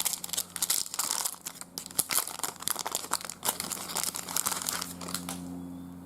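Trading card pack wrapper crinkling and tearing as a pack is opened, with dense irregular crackling that dies down about five and a half seconds in.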